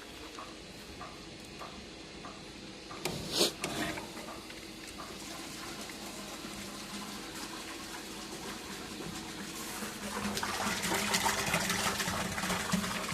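Repaired electric water pump running with a steady hum while water rushes and splashes, the flow getting louder about ten seconds in. A sudden loud clatter comes about three seconds in.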